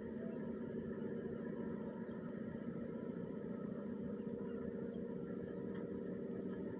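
A steady mechanical drone with a constant low hum, like a motor or engine running, unchanging throughout.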